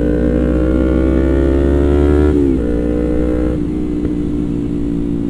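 Motorcycle engine accelerating with its pitch rising steadily, dropping sharply as it shifts up about two and a half seconds in, then holding and easing off about a second later.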